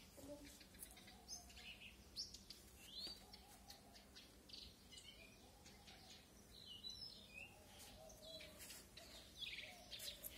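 Faint bird chirps and short calls, scattered irregularly over a quiet background.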